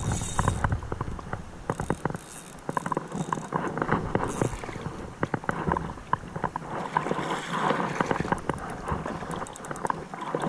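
Ultralight spinning reel ticking rapidly as a strong smallmouth bass is reeled in and pulls line against the drag, over the steady rush of a flowing creek.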